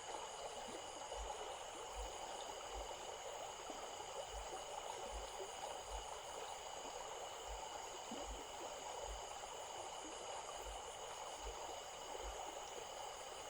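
A stream flowing with a steady rushing sound, and several constant high-pitched tones running over it.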